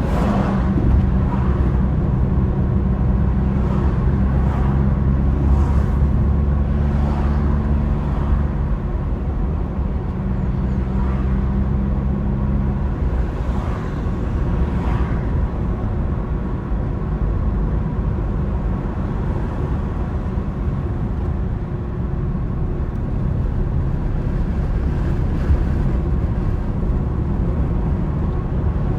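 A car driving: a steady low road rumble with a humming engine note that fades out about halfway through, leaving the rumble on its own.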